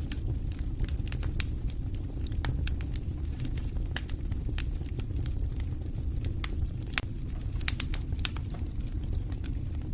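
Campfire crackling: irregular sharp pops and snaps over a steady low rumble, with a few louder pops near the end.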